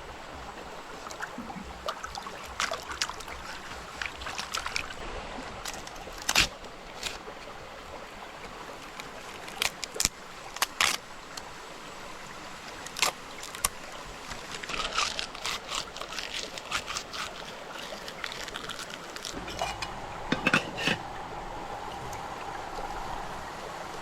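Stream running steadily, with sharp clicks and knocks scattered over it, several of them loud, from camp cookware and gear being handled. About twenty seconds in a steady tone joins.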